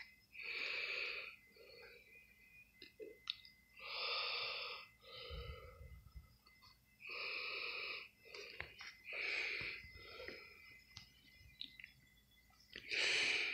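A person breathing close to the microphone: slow, audible breaths in and out, about one every two to three seconds, the last one the loudest.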